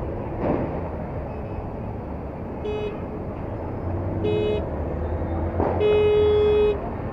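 A vehicle horn honks three times, two short beeps and then a longer, louder honk near the end, over steady wind and engine noise from riding in traffic.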